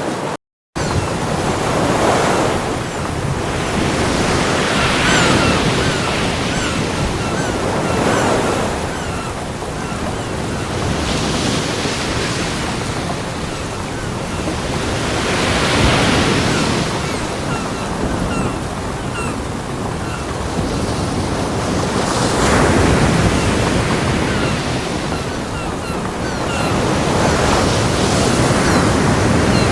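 Ocean surf: waves breaking on a beach, a swell rising and falling every few seconds over a steady wash of water. The sound cuts out briefly just under a second in.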